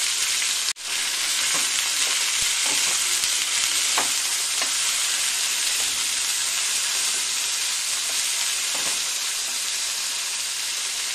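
Cauliflower, carrots and green peas sizzling steadily in hot oil in a steel pan while a spatula stirs them, with light scrapes and taps on the pan now and then. The sizzle drops out for an instant under a second in.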